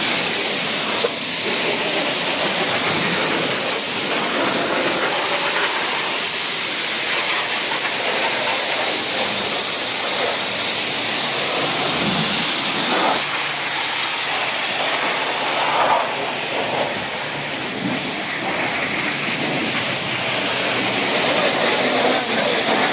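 High-pressure washer spraying water onto a truck, a steady loud hiss with a few brief changes as the spray moves.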